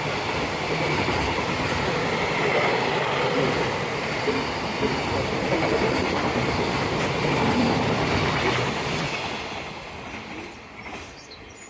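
Electric train running past, a loud rumble of wheels on rails that fades away over the last two seconds.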